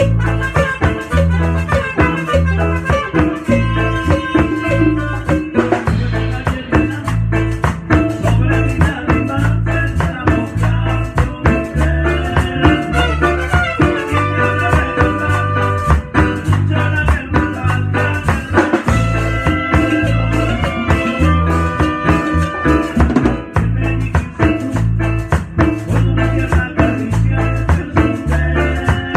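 Live band playing an instrumental passage of a Latin dance song: a steady bass and drum beat with a shaker rattling along and a melody line on top.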